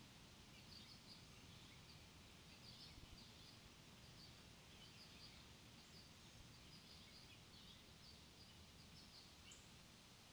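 Faint small birds chirping: many short, high notes scattered irregularly throughout, over a steady outdoor background hiss.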